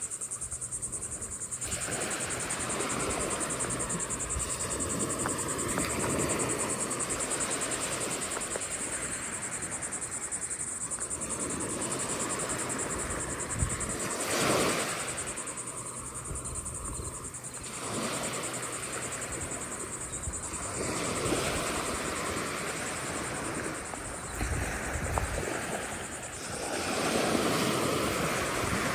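Ocean surf breaking on the shore, the wash swelling and fading every few seconds, over a steady high hiss.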